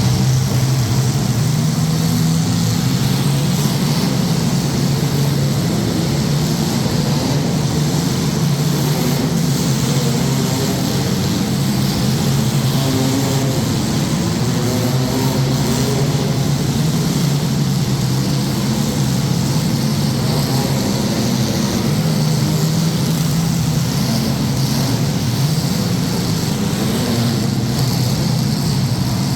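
Several demolition-derby compact cars' engines running together in a loud, steady drone, the pitch wavering up and down as they rev.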